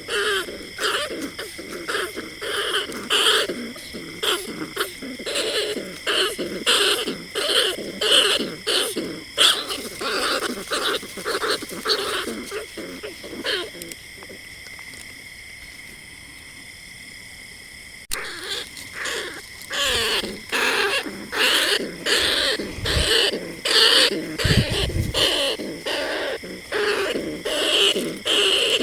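Bandicoot rat calls: rapid, repeated squeaking and chattering notes, two or three a second. This is a recorded call played to lure rats at night. The calls break off for about four seconds midway, then resume.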